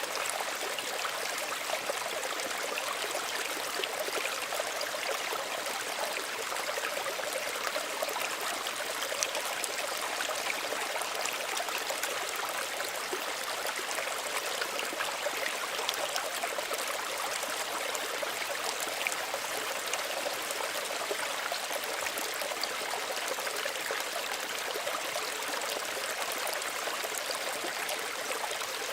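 A small stream running steadily over stones, a continuous trickling and splashing of shallow water.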